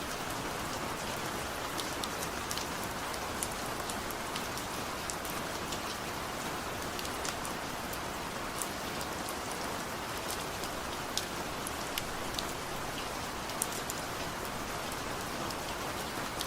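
Steady light rain falling, an even hiss with scattered sharp drips and drops ticking on a surface, no thunder.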